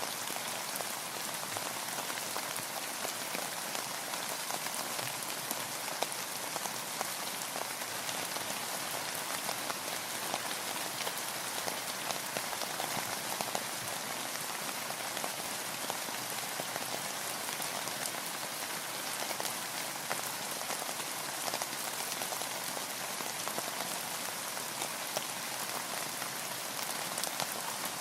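Steady rain falling on a boat, a dense patter with many small drop ticks.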